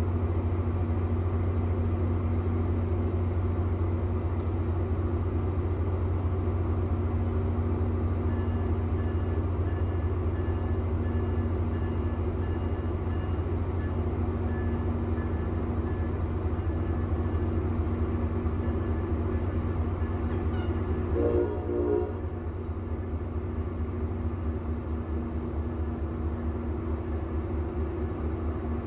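An Amtrak Northeast Regional train standing at a platform gives a steady low hum. About two-thirds of the way through comes a short horn sound as the train departs.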